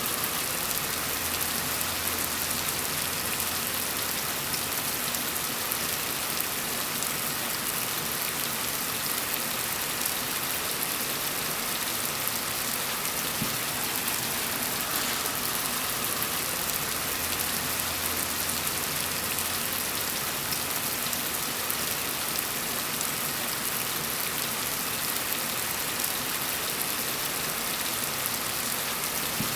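Steady rain falling, an even hiss of many drops with no single drop or gust standing out.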